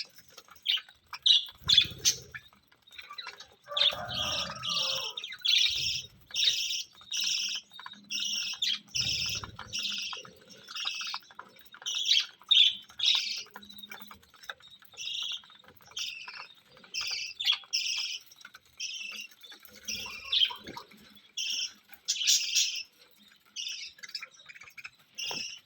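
Small cage birds chirping over and over, short high calls coming several a second with brief gaps, as they feed on foxtail millet. A few low thumps come now and then.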